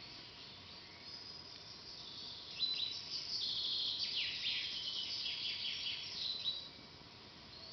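Forest birdsong: a songbird sings a phrase of rapid, high, downward-sliding notes that starts about two and a half seconds in and stops near the end, over a faint high chirping background.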